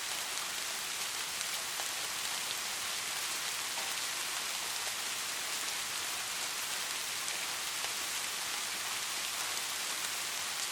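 Steady rain falling, an even hiss of many raindrops with faint scattered drop ticks.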